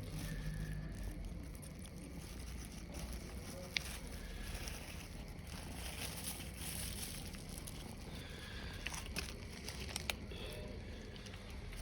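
Cats eating: scattered small crunches and sharp clicks of chewing and picking at food, over a steady low background rumble.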